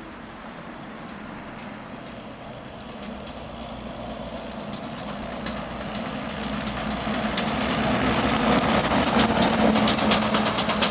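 A heavy vehicle's engine approaching and growing steadily louder, with rapid, evenly spaced high clicking of about five a second that strengthens as it nears.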